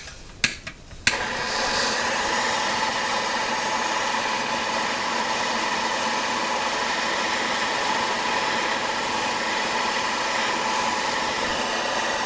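A few clicks, then a heating tool starts about a second in and runs with a steady hiss, heating a stuck engine stud before extraction.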